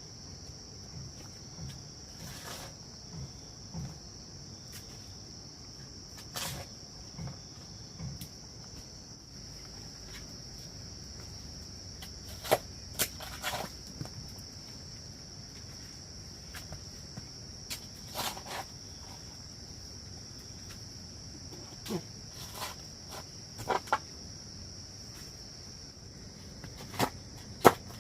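A steady high-pitched insect chorus, like crickets, runs throughout. Scattered sharp knocks and thuds break in now and then, a few of them louder.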